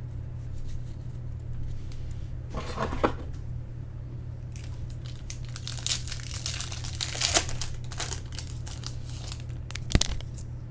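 Foil trading-card pack wrapper being torn open and crinkled in hand, in bursts of crackling, with a sharp click near the end. A steady low electrical hum runs underneath.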